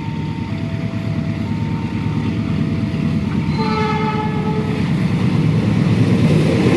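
Level crossing warning alarm sounding two alternating tones, high then low, each lasting just under a second. About three and a half seconds in, a train horn blows once for just over a second, over the rumble of an approaching train that grows louder.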